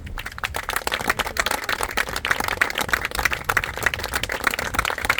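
Audience applauding, starting suddenly: a dense patter of many hands clapping.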